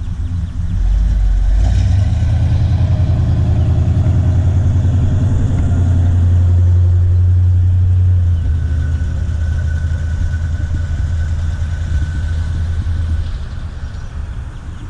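A car's engine running with a deep, low rumble as it rolls close past. It comes up quickly about a second in, stays loud for several seconds, then fades away near the end.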